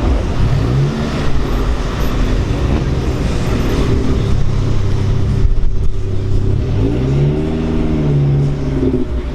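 Car engine revving: the pitch rises about half a second in and holds, then climbs again about seven seconds in, holds and drops back, over a steady low rumble.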